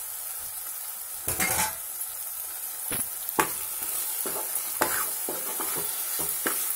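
Tomato and onion masala sizzling in hot oil in a metal pot while a spoon stirs it, scraping and knocking against the pot several times.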